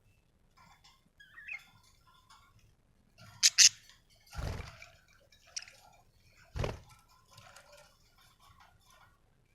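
Budgerigars chirping in short, scattered calls, with two loud, sharp calls about three and a half seconds in. Two dull thuds come later, one soon after the loud calls and one near the middle of the second half.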